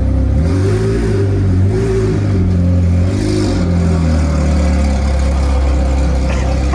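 McLaren 720S twin-turbo V8 running at low revs, a steady low drone whose pitch drifts up and down a little.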